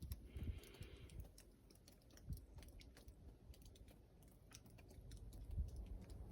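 Faint, irregular sharp ticks and clicks over an uneven low rumble.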